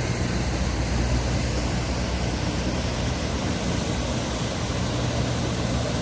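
Waterfall: a steady rush of falling water with a deep, low rumble underneath.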